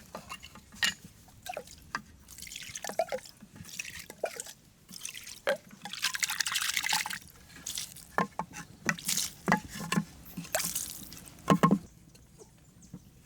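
Water splashing and dripping in short hissing swells, mixed with scattered small knocks and clicks.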